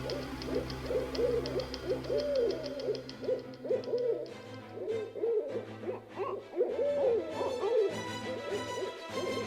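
Owl hooting: many short hoots, each rising and falling, repeated rapidly and overlapping, over a low steady hum that shifts pitch now and then.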